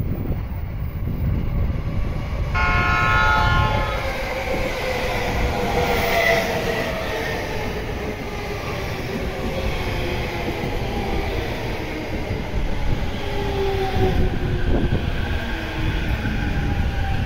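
Yellow-striped Chuo-Sobu local electric commuter train with a short horn blast about two and a half seconds in, then running past with its motor whine falling slowly in pitch as it slows, over wheel and rail rumble.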